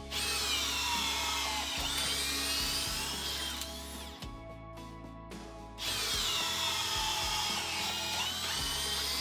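Cordless drill driver motor whining under load, its pitch sagging and recovering, in two runs with a short break about four seconds in.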